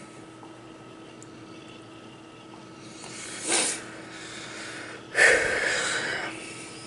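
Two sudden bursts of breath from a person close to the microphone, about a second and a half apart, the second louder and longer, like a snort followed by a sneeze.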